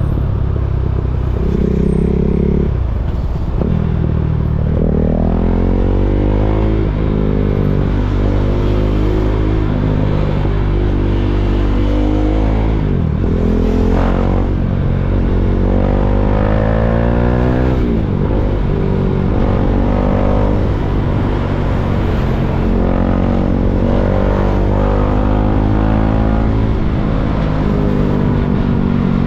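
KTM Duke 390's single-cylinder engine pulling hard through traffic: its pitch climbs and drops back several times as it accelerates and changes gear, over a steady low rumble.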